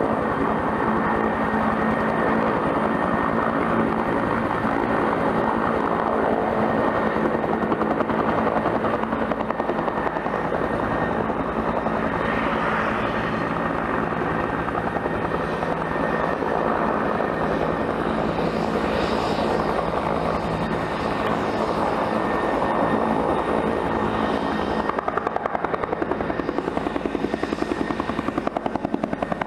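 Bell helicopter running with its turbine engines and rotor turning: a steady high turbine whine over an even rotor beat, the beat growing more pronounced over the last few seconds.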